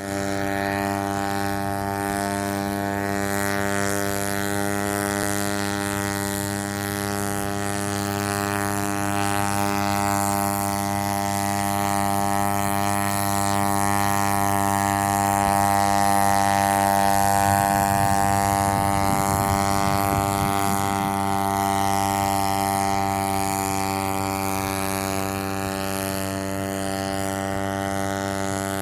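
Homemade paramotor powered by a used Yamaha motorcycle engine, running at a steady speed with its propeller turning. The pitch holds constant throughout, swelling slightly in loudness around the middle.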